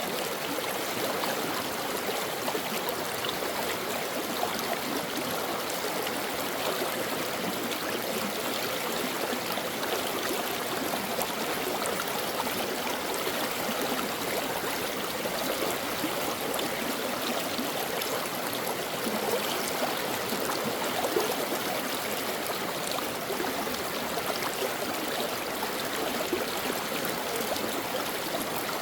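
Stream water running and babbling over rocks, a steady rushing with fine trickling and gurgling texture.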